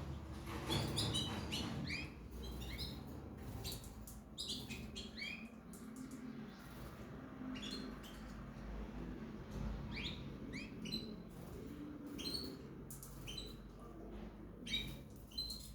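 Small cage birds chirping: short, quick chirps that come in clusters, some rising at the end.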